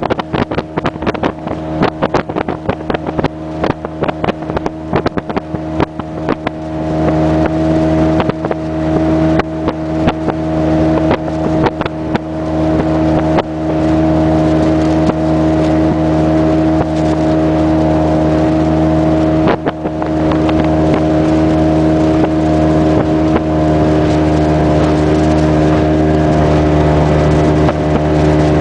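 Small motorboat's engine running steadily under way, with the hull knocking on the water many times in the first half. About a third of the way in the engine grows louder and settles to an even pitch.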